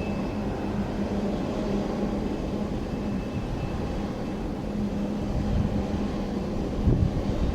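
Jet airliner engines running at a distance: a steady low drone with a held hum. Wind starts buffeting the microphone near the end.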